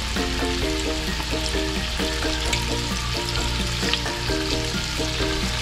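Flour-coated chicken wings frying in shallow oil in a skillet: a steady sizzle with small crackles and pops. Background music with a stepping melody plays under it.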